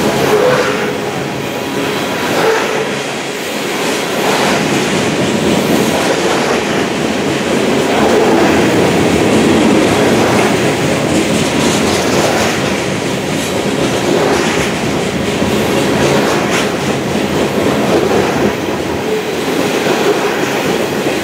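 Covered hopper cars of a Union Pacific freight train rolling steadily past: the steady rumble of steel wheels on rail, with scattered clicks as the wheels cross rail joints.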